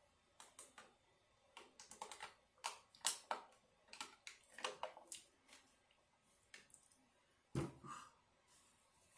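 Close-miked crackles and clicks of food being handled and eaten, coming irregularly, with one dull thump near the end.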